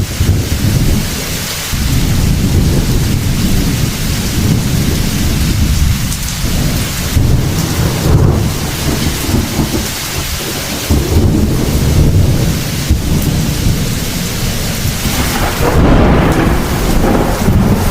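Heavy thunderstorm: steady rain with thunder rumbling continuously underneath.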